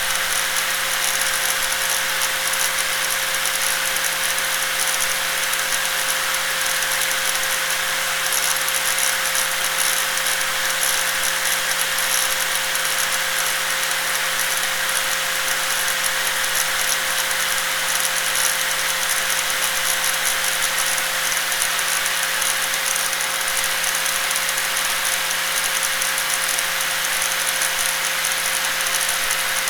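Electric angle grinder running continuously at steady speed, with a constant whine and a dense rattling noise that holds level throughout.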